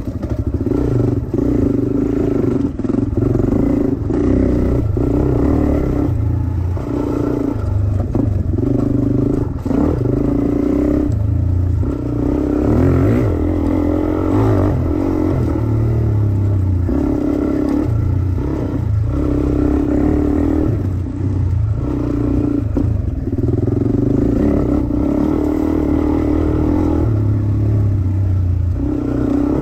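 Dirt bike engine running hard while riding a trail, revving up and dropping off again and again with throttle and gear changes.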